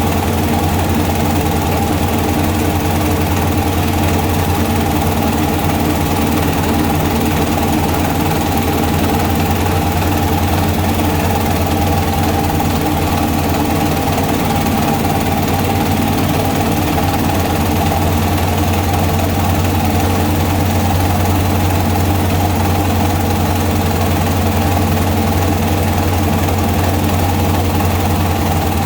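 Small stationary diesel engine running a rice bran milling machine at a steady, even speed, with a deep constant hum and a light knock.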